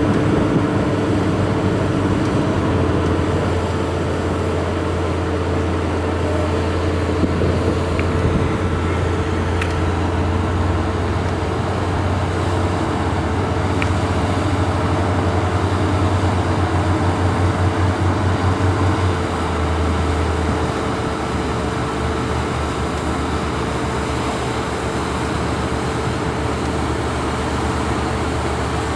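Boat's engine running steadily under load, a deep low hum with a steady higher tone above it. The low throb shifts and eases slightly about twenty seconds in.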